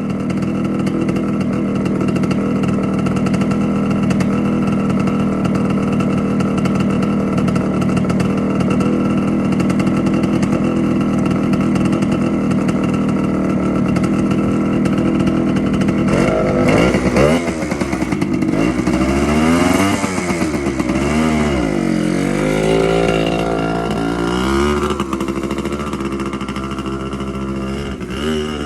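Suzuki TC125 dirt bike's two-stroke single-cylinder engine running at a steady idle, then, from a little past halfway, being revved up and down again and again, its pitch rising and falling.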